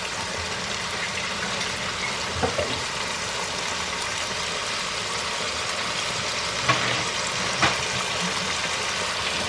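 Chicken pieces sizzling steadily as they fry in hot melted ghee in a frying pan, with a few light knocks about two and a half, seven and eight seconds in.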